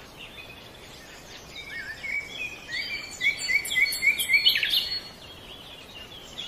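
Small birds chirping and singing over a steady hiss, loudest in the middle, where one bird gives a quick run of short rising chirps, about three a second.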